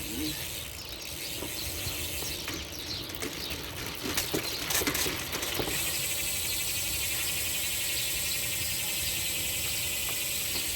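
Upturned bike's motor running and spinning the wheel: a steady high-pitched whir, with a run of clicks and rattles in the middle that settles into an even whir.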